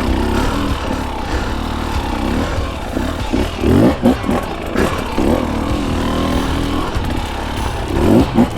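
Dirt bike engine running while being ridden, its revs rising and falling again and again as the throttle is worked.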